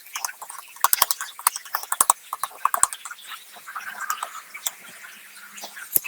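Food-preparation sounds: irregular sharp clicks and taps, some in quick clusters, with soft wet noises between them.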